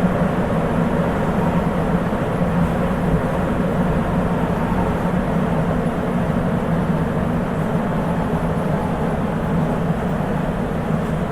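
Interior running noise of a Sapporo Municipal Subway 8000 series car (Hitachi IGBT inverter), a rubber-tyred metro train running steadily through the tunnel. It is an even rumble with a steady low hum underneath.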